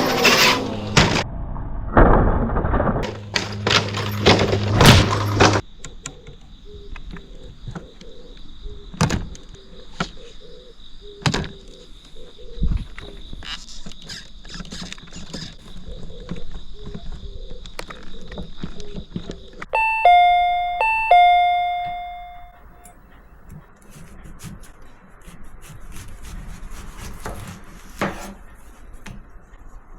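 Loud, noisy clatter with knocks for the first few seconds, then a faint steady high whine. About twenty seconds in, a two-note ding-dong chime rings twice and fades.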